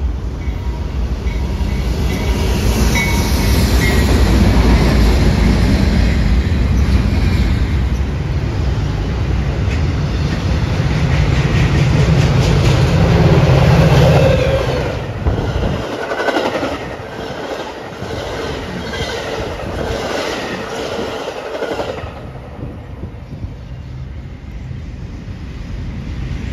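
A Metra commuter train, a diesel locomotive with bilevel passenger cars, passes close by with a loud low rumble that drops away suddenly about sixteen seconds in. Then the wheels of a double-stack container freight train click evenly over the rail joints for several seconds, before settling into a quieter rolling sound near the end.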